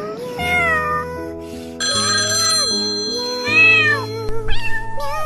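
Background music with a cat meowing over it several times, in short rising and falling calls.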